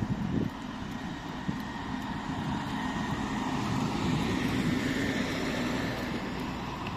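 Motor vehicle running past on the street, a steady engine and road noise that swells towards the middle and eases off near the end.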